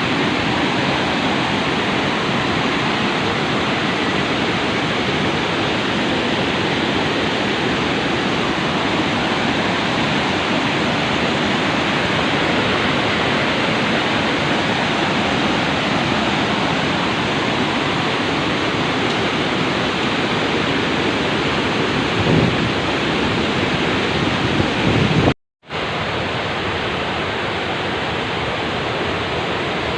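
Steady rushing roar of Vazhachal Falls' cascading water. It cuts out to silence for an instant about 25 seconds in, then carries on a little quieter.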